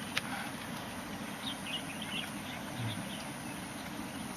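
Small birds chirping: a quick run of short high calls from about a second and a half in, over steady background noise, with a single sharp click at the very start.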